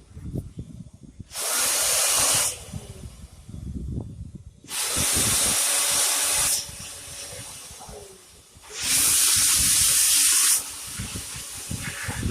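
Cordless battery-powered leaf blower fired in three short blasts of rushing air, each lasting one to two seconds, blowing dust out of a computer, with handling knocks in between.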